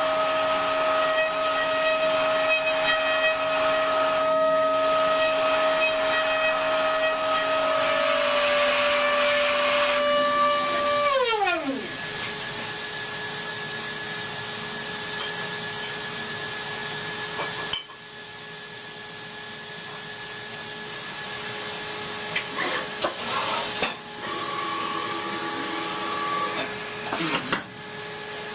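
A CNC machine's spindle motor runs with a steady high whine, then spins down about eleven seconds in, its pitch falling fast. A steady hiss continues after it.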